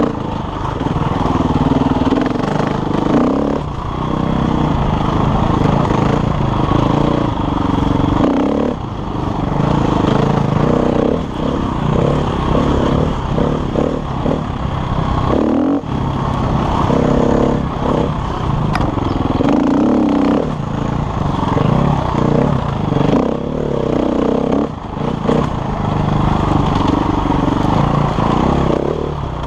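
KTM enduro dirt bike's engine working along a tight trail, the revs rising and falling again and again as the throttle is opened and shut, with short breaks every few seconds.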